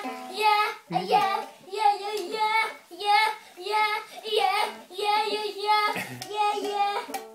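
A young child singing in a steady rhythm, about two syllables a second, ending on held notes.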